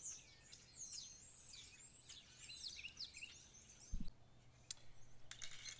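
Birds chirping, with many quick, high sweeping calls over the first three and a half seconds. About four seconds in comes a single low thump, then a few light clicks.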